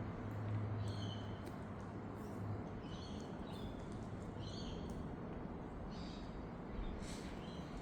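Wild birds calling with short, high chirps, several in a row at irregular intervals about a second apart, over a steady low background rumble.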